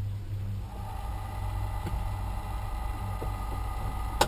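Small electric fan switched on, starting to run with a steady whine about a second in over a low hum. A single sharp click near the end.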